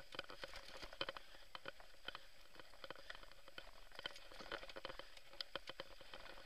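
Mountain bike rattling over a rough, stony trail: many small irregular clicks and knocks over a faint hiss.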